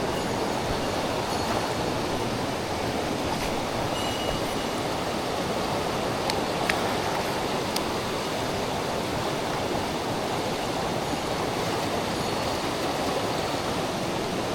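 Mountain stream water running with a steady, even rush, with a few faint clicks.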